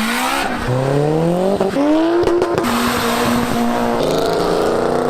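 Modified car engines revving hard as the cars pull away. Each climbs in pitch and then drops back at a gear change, several times, with a short stretch of steady revs in the middle.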